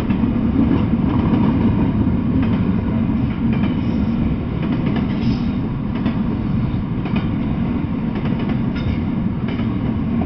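Double-stack intermodal freight train rolling past: a steady low rumble of steel wheels on the rails, with scattered sharp clicks and knocks.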